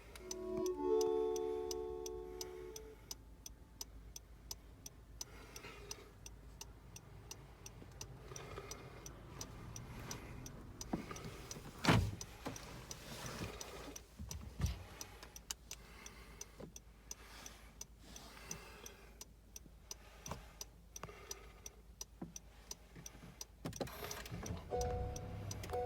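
Inside a Honda N-BOX Custom's cabin, an electronic chime sounds at the start, then faint, steady, regular ticking goes on throughout. Two sharp knocks come about halfway through, and a two-tone electronic beep starts repeating near the end.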